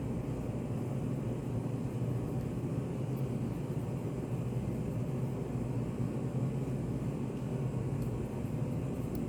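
Steady low, rumbling white noise of a study café's background, with a faint hum running under it and no change throughout; a few tiny faint ticks near the end.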